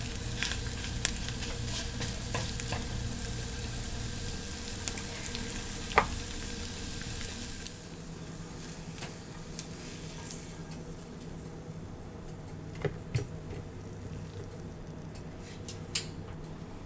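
Food sizzling in a hot pan, with a few sharp clicks and taps of a utensil. The sizzle drops away sharply about halfway through, leaving a fainter hiss.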